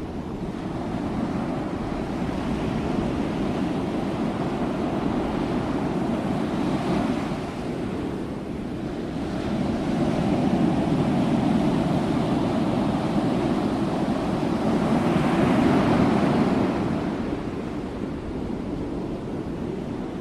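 Ocean waves breaking and washing on the shore as a continuous rushing surf that swells and eases slowly, loudest for several seconds in the second half.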